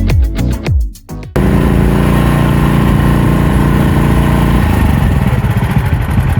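Electronic music with a beat that cuts off abruptly about a second in, followed by the AGT MX-MRT14 mini skid steer's engine running steadily. The engine sound turns rougher and less even near the end.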